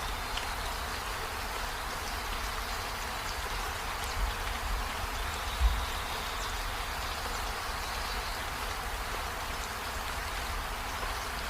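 Steady rain falling, an even hiss with faint scattered drop ticks over a low rumble. Two brief low thumps come about four and five and a half seconds in, the second the loudest.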